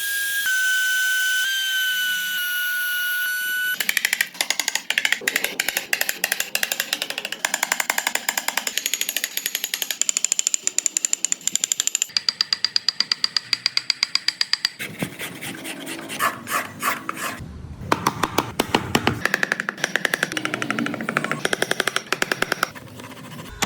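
Woodworking power tools at work on wood: a small electric tool whines steadily for the first few seconds, then a fast, even clicking rattle takes over and runs on, changing in pitch.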